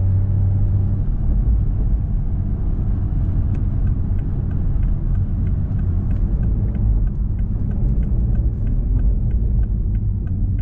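Steady low road and engine rumble inside a moving car's cabin. About a third of the way in, a light, evenly spaced ticking starts, a few ticks a second, and keeps on.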